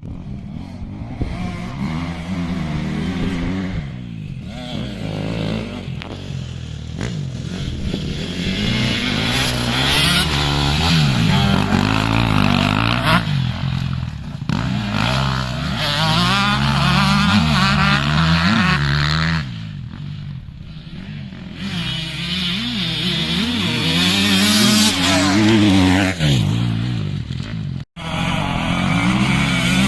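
Motocross bike engines revving hard, their pitch repeatedly climbing and falling as the riders work the throttle and shift, with quieter spells between louder passes. The sound cuts out for an instant near the end.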